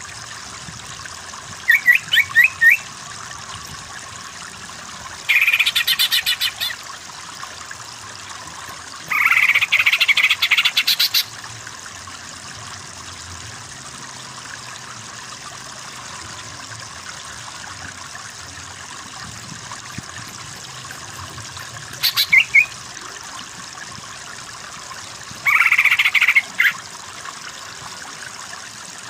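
Cucak ijo (green leafbird) calling in five short bursts of rapid, repeated notes, over a steady background of running water.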